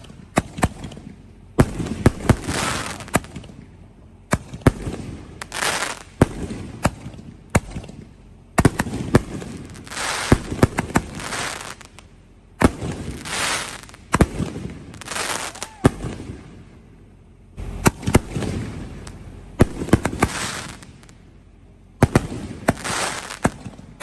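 Hydra Bomb 60-gram canister shells, a whole 24-pack fused together and fired like a cake. A sharp bang comes about every two seconds, each followed by a second or so of crackling from the green bursts.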